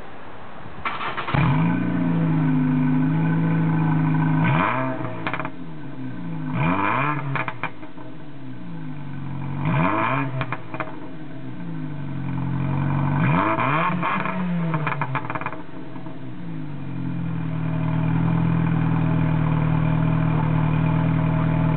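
Straight-piped exhaust of a 2007 Ford Focus Duratec inline-four, resonator removed, starting cold about a second in and settling into a fast idle. The throttle is then blipped four times, each rev rising and falling back, before the engine settles into a louder steady run.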